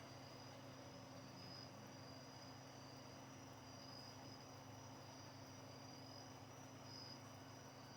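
Faint, steady chorus of crickets at night: a continuous high trill that swells and fades every second or two, over a low steady hum.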